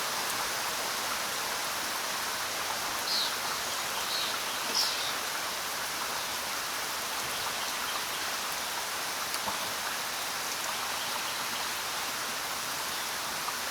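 Steady rainfall, an even hiss of raindrops falling.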